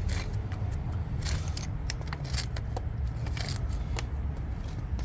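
Scattered light clicks and scrapes of handling at an open sewer cleanout, over a steady low rumble.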